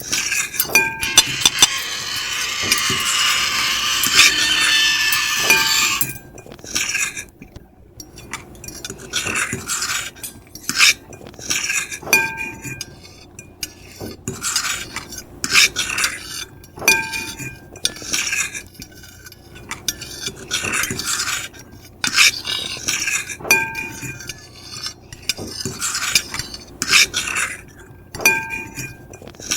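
Metal fork and knife scraping across a ceramic plate: a continuous high scrape for the first few seconds, then short repeated scrapes and clinks, each with a brief squeal.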